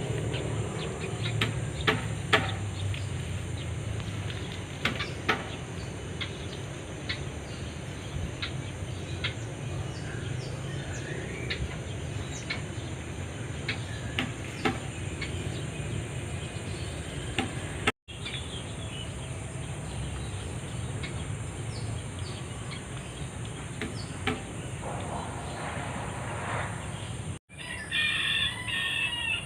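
Fowl-like bird calls near the start and again near the end, over steady outdoor background with scattered short ticks.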